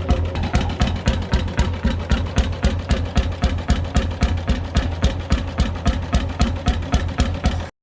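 McDonald PB 9/11 hp two-stroke 'super diesel' engine running steadily, firing in a rapid, even knocking beat over a deep hum. The sound cuts out briefly near the end and then resumes unchanged.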